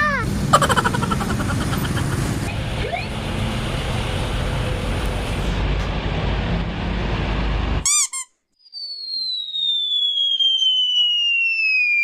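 Road traffic noise with a heavy vehicle engine rumbling for about eight seconds, cut off abruptly. After a short chirp, a long whistle falls steadily in pitch, like a bomb-drop sound effect.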